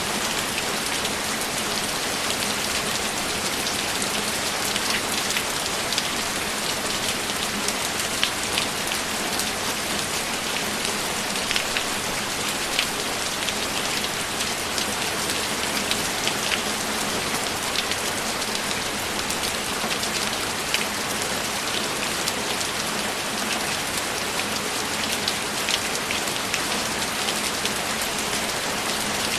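Steady rain falling without let-up, with many sharp individual drop taps standing out over the even hiss.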